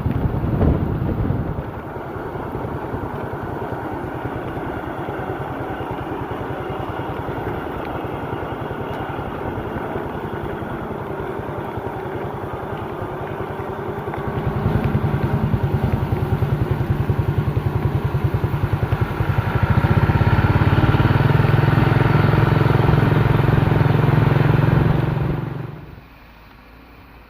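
Engine of a truck loaded with sugarcane, running with an even rapid beat, working harder about halfway through and harder again after about twenty seconds, then cutting off sharply near the end.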